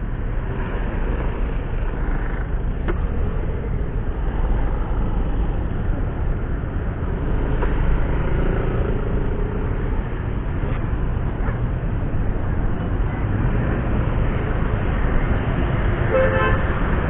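Steady road-traffic noise, with a vehicle horn sounding briefly near the end.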